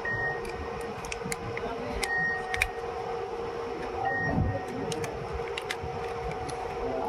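Soap factory machine running: a steady hum with a short high tone about every two seconds and scattered sharp clicks.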